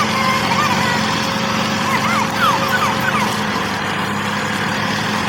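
A small motor, as of a DIY mini tractor, runs with a steady hum. A few short bird chirps come about two to three seconds in.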